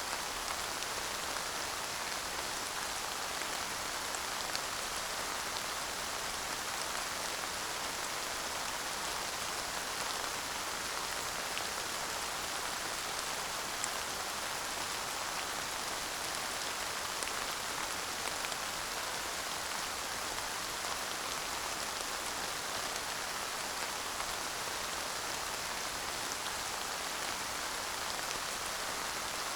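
Steady light rain falling, an even patter with occasional individual drops ticking, no thunder.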